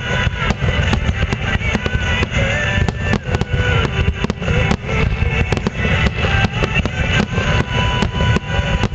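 Fireworks bursting in a dense barrage: a continuous low rumble of shell explosions with many sharp crackles, with music playing at the same time.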